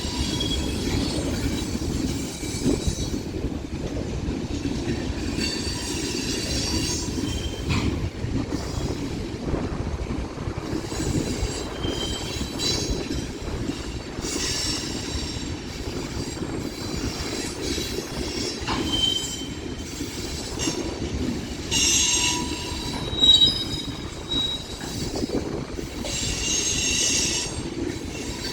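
A slow BNSF mixed freight train's cars rolling past: a steady low rumble of wheels on rail with clicking over the rail joints and repeated bursts of high-pitched wheel squeal, strongest about halfway through and near the end.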